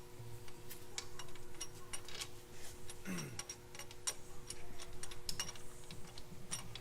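Ratchet wrench clicking in quick, irregular strokes as cylinder head bolts are run out of a Gen1 Ford Coyote 5.0 V8.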